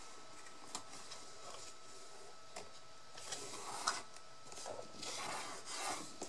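Paper and cardboard being handled: a few light taps, then rustling and rubbing from about three seconds in, as glued paper is pressed down over cardboard.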